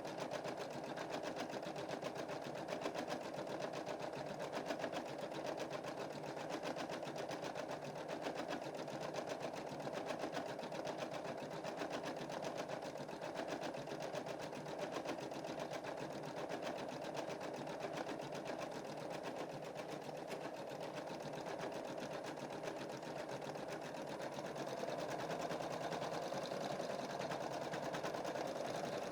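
Computerized embroidery machine stitching a design: a steady, rapid needle rhythm with the hum of its motor, slightly louder near the end.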